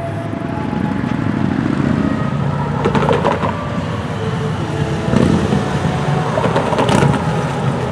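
Union Pacific intermodal freight train passing close by: a steady low rumble from the train, with sharp clanks and rattles about three seconds in, about five seconds in and near the end.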